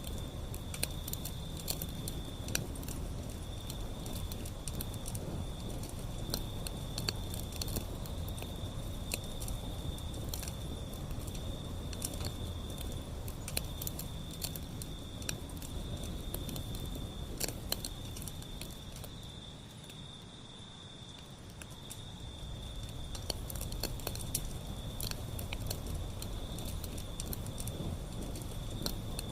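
Wood fire burning, with many sharp crackles and pops over a low, steady rumble of flames. A continuous high-pitched tone sits above it, and the fire's rumble drops briefly about two-thirds of the way through.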